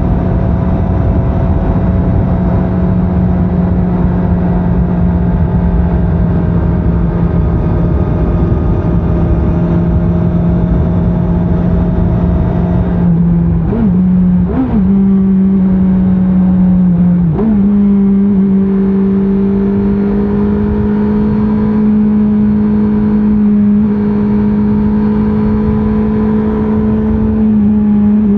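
Stock-exhaust 2024 Honda CBR650R inline-four engine running at steady cruise under a rider. Its pitch sinks slowly, rises briefly twice about 14 seconds in, then dips and settles at a slightly higher steady pitch a few seconds later.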